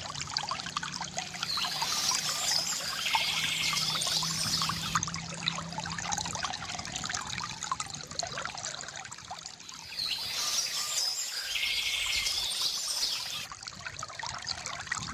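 Water trickling and splashing from a bamboo fountain, with birds singing in two bursts, about two seconds in and again about ten seconds in.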